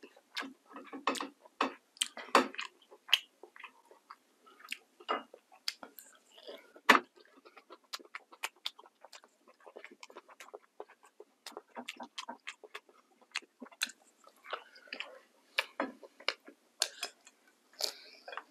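Close-miked eating sounds of a person chewing a meal by hand: irregular wet mouth clicks and smacks, with one sharp loud click about seven seconds in.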